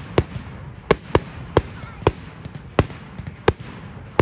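Fireworks going off: a string of sharp bangs, about seven in four seconds at uneven intervals, over a steady background rumble.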